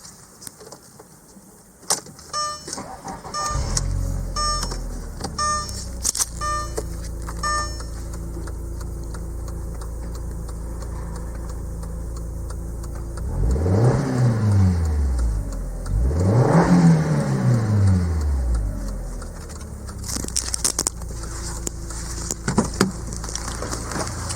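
Audi TT 8N's 1.8-litre turbocharged four-cylinder (AUQ) engine starting a few seconds in and idling steadily, while a warning chime beeps about seven times. About halfway through it is revved twice, each rev rising and falling back, then it returns to idle.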